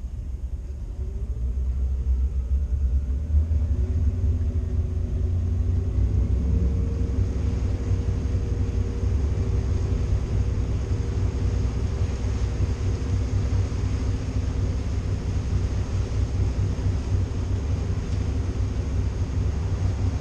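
A motorboat's twin engines running underway, with a deep steady rumble; their pitch rises over the first several seconds as they speed up, then holds steady.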